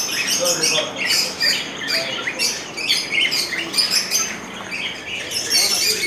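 Many caged small birds chirping at once: a dense, constant chatter of short, overlapping calls.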